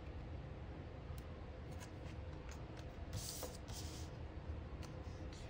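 Faint paper handling: short rustles of planner paper and sticker sheets, the longest a little past halfway, with a few light taps and clicks over a low steady room hum.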